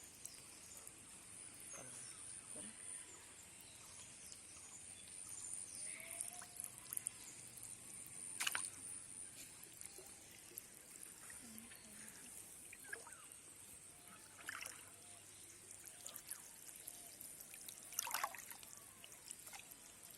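Water splashing and trickling at the water's edge, with two louder splashes about 8 and 18 seconds in, over a steady high-pitched insect drone.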